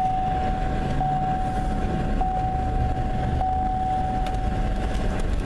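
A truck's warning chime sounds as one steady high tone with faint ticks about once a second and stops near the end, over the idling truck engine.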